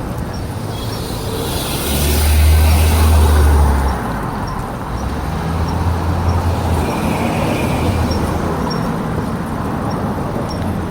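Road traffic noise heard from a moving bike, with a low rumble that swells loudest between about two and four seconds in.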